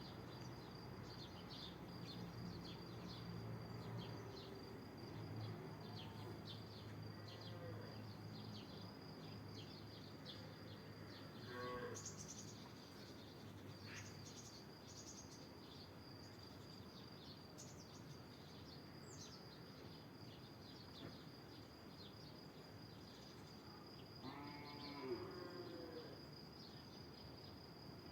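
Quiet outdoor ambience: a steady high-pitched insect trill runs throughout, with scattered short bird chirps over it. A low hum sits underneath for about the first half, then stops.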